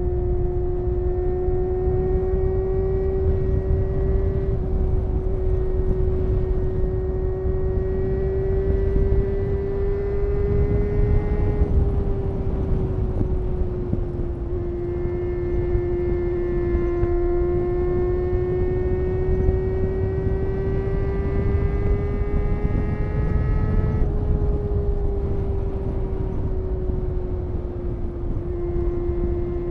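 Honda CBR250RR MC22's inline-four engine running at high revs while riding, its high-pitched note climbing slowly and dropping back sharply about 12 seconds in and again about 24 seconds in, then holding steady near the end. Heavy wind rush from riding speed runs underneath.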